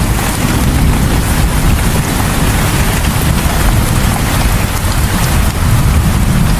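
Heavy rain falling steadily: a dense, even hiss of rain with a deep rumble underneath.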